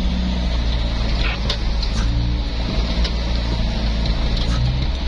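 Truck engine running steadily as the truck drives, a constant low drone with a few short knocks and clicks.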